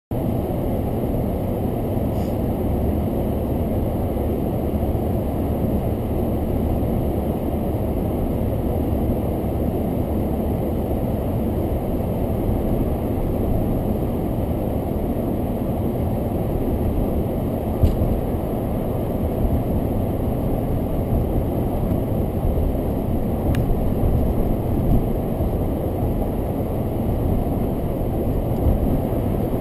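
Steady low rumble of vehicle engine and road noise heard from inside a car's cabin, with a single sharp knock about 18 seconds in.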